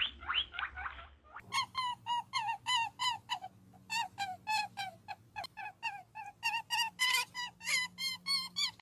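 A bird calling over and over in short, sharp calls, about three a second. A brief burst of higher calls comes first, and the steady run starts a little over a second in.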